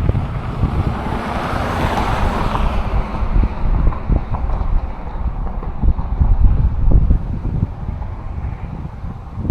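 Wind buffeting the microphone, a rough low rumble throughout, with a swell of rushing hiss that rises and fades about two seconds in.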